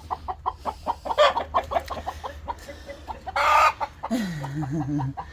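Hens clucking in quick short notes, with one loud squawk about three and a half seconds in.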